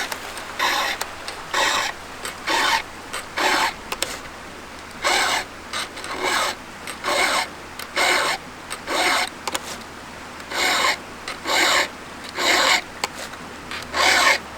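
A file rasping across chainsaw chain cutter teeth in short, even strokes, about one a second, with a couple of brief pauses. This is the chain being sharpened, its teeth burred from hitting steel.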